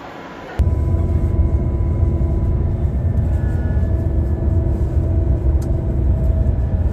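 Steady low rumble of a running vehicle with a faint engine hum, cutting in abruptly about half a second in.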